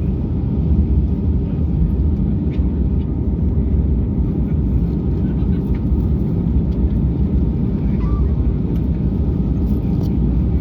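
Steady low rumble of an Airbus A320-200's engines and airframe, heard from inside the passenger cabin as the airliner lands.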